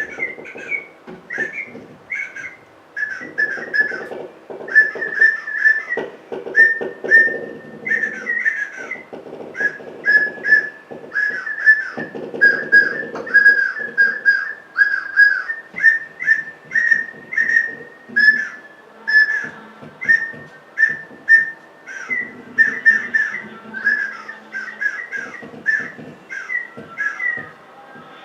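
Bird-like whistled chirps in a rapid run, about two a second, many falling slightly in pitch. Under them is a soft low rumbling texture.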